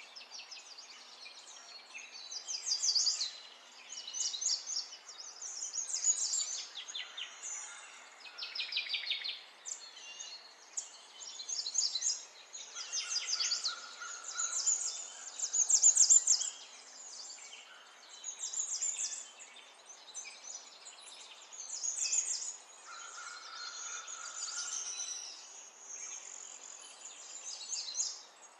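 Songbirds singing: repeated high-pitched phrases of rapid chirps and trills, a second or two apart, over a steady background hiss.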